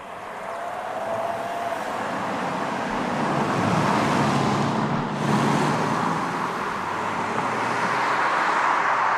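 A car running with road noise, growing louder over the first few seconds, with a brief dip about five seconds in.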